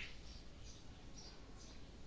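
A small bird chirping: short, high chirps repeating about twice a second. A brief sharper sound comes at the very start.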